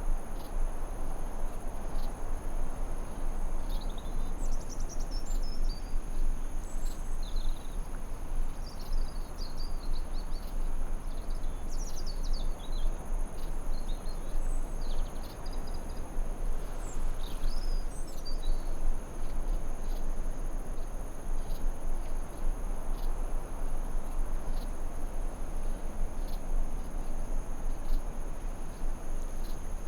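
Forest ambience: a steady high-pitched insect trill over a constant hiss, with birds chirping in short twittering phrases through the first half or so, then stopping.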